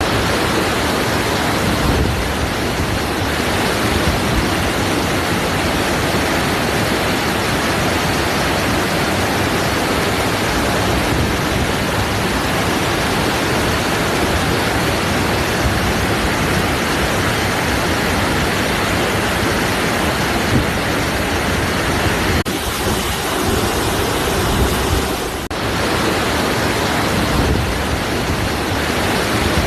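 Waterfall: a steady, loud rush of falling water. It dips briefly for a few seconds near the end, then goes on as before.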